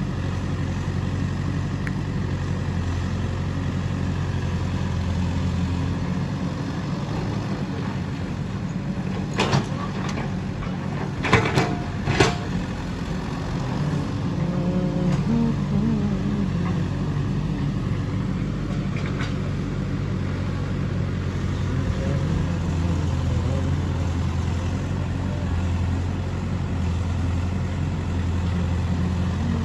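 Heavy diesel machinery, a JCB loader and a tractor, running steadily with a deep drone. A few sharp knocks come about ten to twelve seconds in, typical of the loader's bucket working soil into the trolley.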